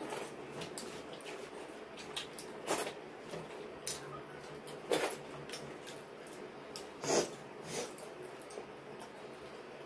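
Eating sounds: wet chewing and lip smacks from people eating pitha roti with chicken curry by hand, with irregular short smacks, a few of them louder.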